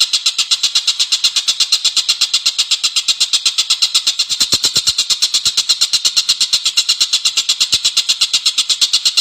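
A songbird's rapid, even-paced trill of about ten notes a second, high-pitched and unbroken, played as a masteran recording for training contest birds. A few faint low knocks sound just past the middle.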